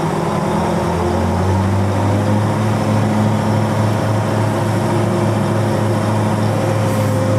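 Log stacker's diesel engine running heavily, heard from inside the cab. Its low hum swells and settles into a steady drone about a second in as the articulated machine works and turns.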